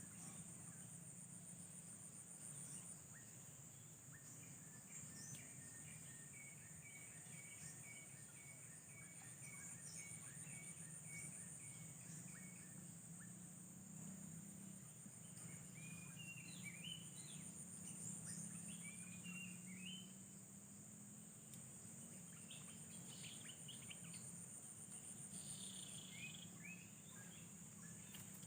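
Insects, cricket-like, trilling steadily in a high pitch, with scattered short bird chirps and a low steady hum underneath.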